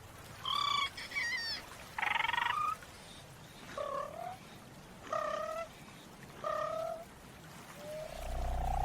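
A series of short, pitched animal-like calls, about six of them, each under a second and spaced a second or so apart, one of them harsher and buzzier. Near the end comes a longer rising call over a low rumble.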